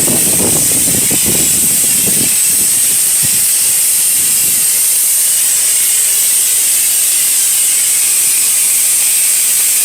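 Steady, loud hiss of a low-pressure soft-wash spray nozzle applying cleaning solution to a stone wall.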